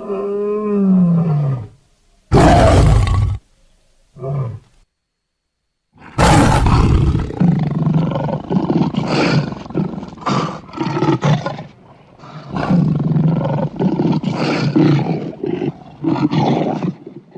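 Big-cat roar sound effects, mixed from lion, smilodon and tiger recordings. A drawn-out call that falls in pitch opens the run, followed by two short roars, then a long stretch of repeated roars and growls from about six seconds in.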